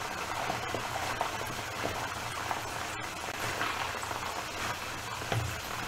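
Steady sizzle and crackle of a blended onion paste pan-frying as its moisture cooks off in steam, with chicken frying in oil in the pan beside it. There is a light knock near the end.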